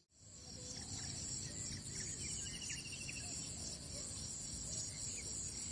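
Insects chirring steadily in high-pitched bands over a low background rumble, starting just after a brief dropout at the very beginning; a few faint short chirps sound about two to three seconds in.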